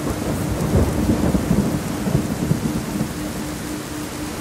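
Steady heavy rain with a low thunder rumble, strongest a second or two in. Underneath runs a low tone pulsing about four times a second, the 4 Hz theta layer of the track.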